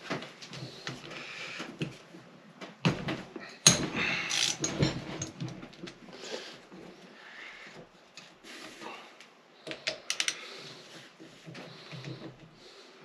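Hand tools working the top-end nuts of a 1973 Honda CB450 engine during teardown: scattered clicks and knocks of a wrench on the nuts, with a cluster about three to five seconds in and another about ten seconds in.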